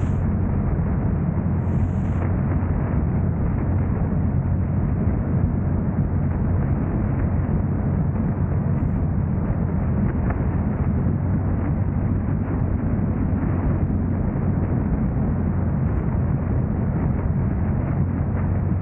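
Steady low rumble of a car driving: engine, tyre and road noise, even throughout.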